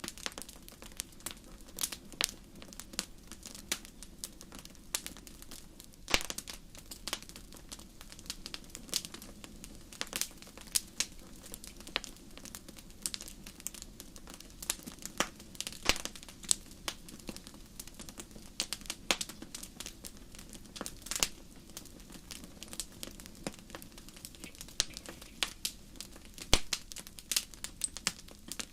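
Wood fire crackling in a fireplace: a steady soft rumble under dense, irregular pops and snaps, several sharp louder cracks among them.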